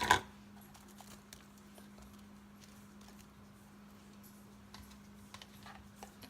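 Soft, scattered clicks and taps of ground beef being spread onto a frozen pizza, over a steady low hum, with one sharper knock right at the start.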